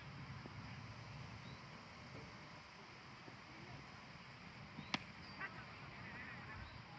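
A cricket ball struck once, a single sharp crack about five seconds in, over faint steady outdoor background noise with a fast, high, even ticking of about four to five beats a second.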